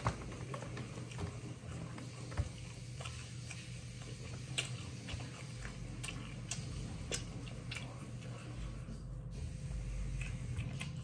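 Mouth eating pork rib and bread: scattered soft clicks and smacks of chewing and gnawing, over a low steady hum.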